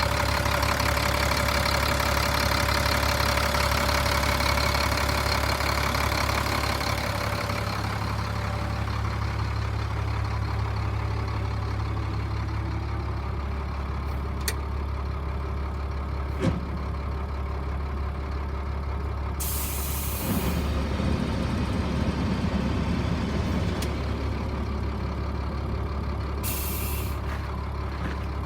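1997 Freightliner bulk fuel truck's diesel engine idling steadily, running busier for the first several seconds before settling. Two sharp clicks come near the middle, then two short hisses of released air from the truck's air system, one about two-thirds through and one near the end.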